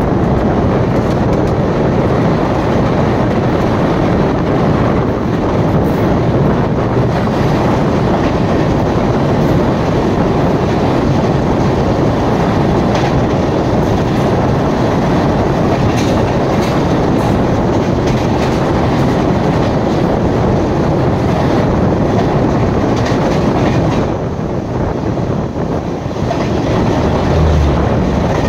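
Two trains crossing at speed on adjacent tracks, heard from the open door of one of them. The oncoming electric-hauled passenger coaches rush past in a loud, steady roar of wind and wheel noise, with the clatter of wheels over rail joints.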